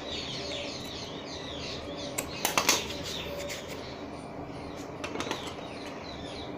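Small birds chirping repeatedly in the background, quick high falling chirps throughout. A few sharp rustles and clicks of cloth being handled come about two and a half seconds in and again about five seconds in, the louder ones around two and a half seconds.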